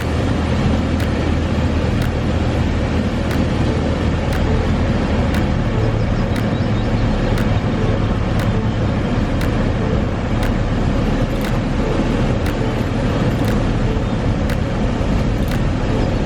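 Cessna 172 engine and propeller noise heard in the cockpit, a steady loud drone with short clicks about once a second.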